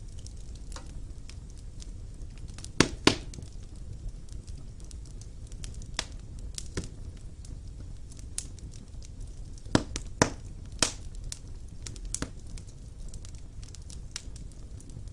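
Fire burning in a fireplace: a steady low rumble of flames with irregular sharp crackles and pops. The loudest are two snaps close together about three seconds in and a few more around ten to eleven seconds.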